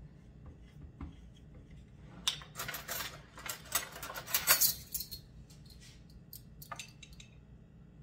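Kitchen utensils clinking and clattering: a dense run of metallic clicks for a few seconds in the middle, then a few separate clicks later.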